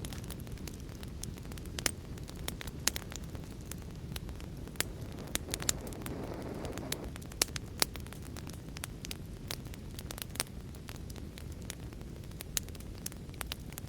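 A wood fire crackling: frequent sharp, irregular pops and snaps over a steady low rumble of burning, with a brief hissing swell about halfway through.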